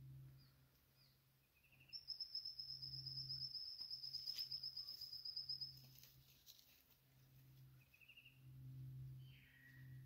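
Birds calling in Australian bush. A high, rapid, even trill runs for almost four seconds from about two seconds in. Short chirps come before it and near the end, one of them sliding down.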